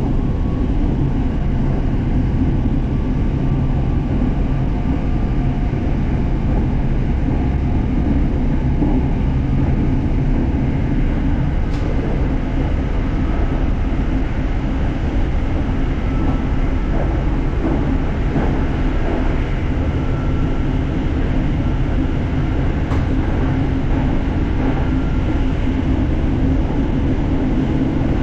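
An SRT Red Line electric commuter train running, heard from inside the passenger car: a steady rumble of wheels and track, with faint whining tones that come and go and a couple of brief clicks.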